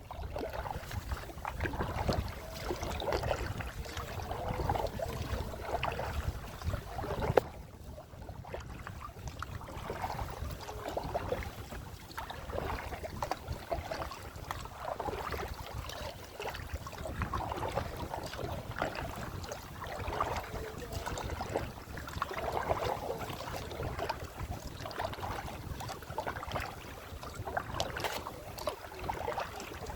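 Water splashing and sloshing around a kayak as it is paddled, in uneven swells every second or two over a steady low rumble. There is one sharp knock about seven seconds in.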